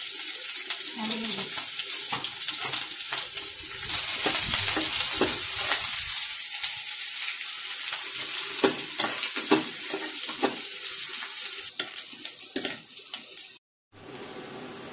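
Sliced onions, garlic and dried red chillies sizzling in hot oil in a wok, stirred with a metal spatula that scrapes and taps against the pan. The sizzle cuts out for a moment near the end and comes back quieter.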